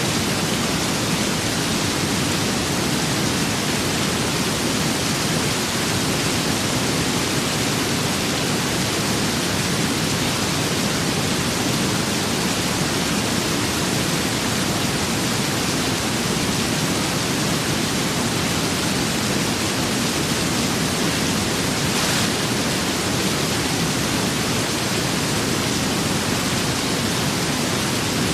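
Steady rain with wind: an even, unbroken hiss with no gusts or pauses.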